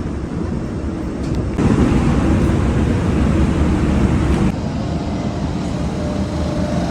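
Steady low rumble of engines with wind noise. It jumps louder about a second and a half in and drops back abruptly about three seconds later.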